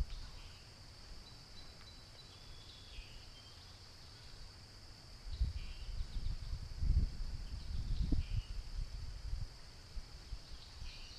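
Creekside ambience: a steady high drone of insects, with a few short bird calls scattered through. Low rumbling noise, the loudest thing here, comes in from about five to nine seconds in.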